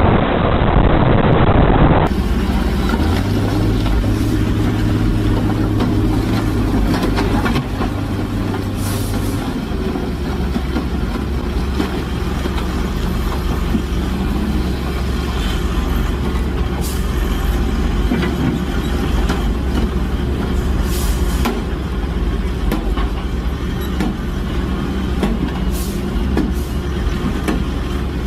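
Heavy vehicle engine running steadily with a low drone, with scattered clicks and knocks; the sound changes abruptly about two seconds in.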